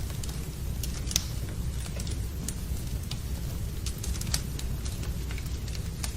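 Wood fire crackling, with irregular sharp pops and snaps over a steady low rumble, blended with rain.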